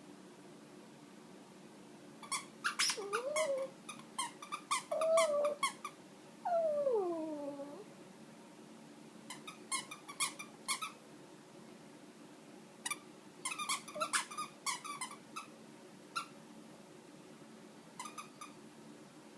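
Shih Tzu puppy chewing a squeaky toy, making rapid bursts of sharp squeaks on and off. He whines a few times between the early bursts, ending in one long falling whine about seven seconds in.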